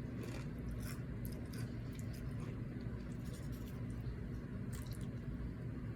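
Faint, sparse eating sounds of someone eating chips with a cheesy chili dip, a few soft clicks and squishes over a steady low hum.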